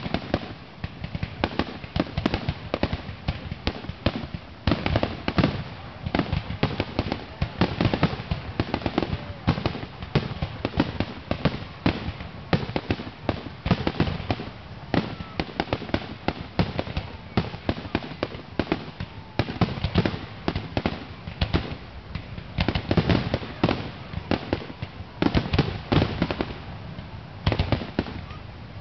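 A fireworks finale: aerial shells bursting in a rapid, near-continuous barrage of bangs, growing denser in clusters every few seconds.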